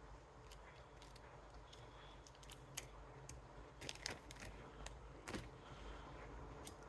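Faint, scattered light clicks and taps of small tools and parts being handled on a workbench, a few sharper ones past the middle, over a quiet room hum.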